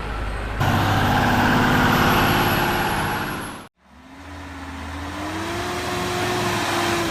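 Volvo FH16 540 log truck's diesel engine running loudly and steadily. Just past halfway the sound cuts off abruptly, and another engine comes in, rising in pitch and then holding steady.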